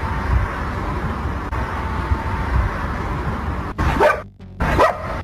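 A dog barking twice in quick succession near the end, after several seconds of steady background noise.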